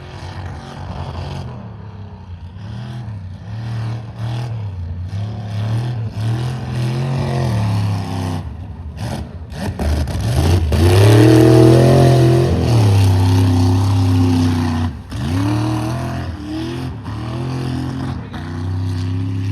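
Mega truck engine revving hard in repeated surges, the pitch climbing and falling. The longest, loudest rev comes about ten seconds in and is held for a few seconds before dropping off.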